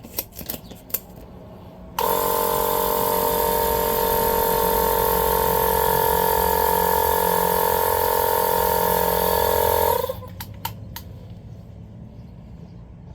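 A few clicks, then a small battery-powered tire inflator runs with a steady whine for about eight seconds and cuts off suddenly as its battery dies.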